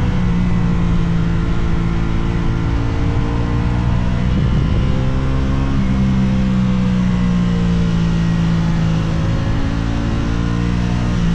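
Aprilia RS660 sport bike's parallel-twin engine running under way at a fairly steady pitch. About four seconds in the note breaks briefly, then comes back higher and slowly sinks.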